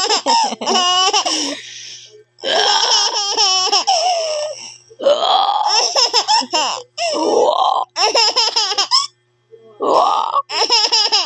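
A 7-month-old baby girl laughing out loud in about five bouts of rapid, pulsing laughs, with short breaks between them.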